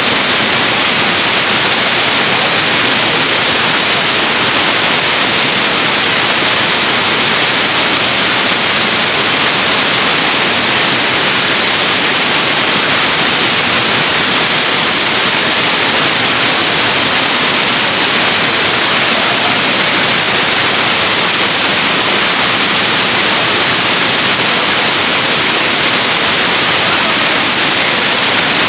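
Waterfall rushing: a loud, steady hiss of falling water with no change.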